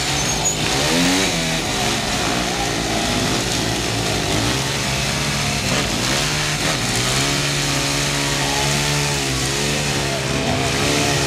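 Supermoto motorcycle engine revved hard during a rear-tyre burnout, its pitch rising and falling as the throttle is worked.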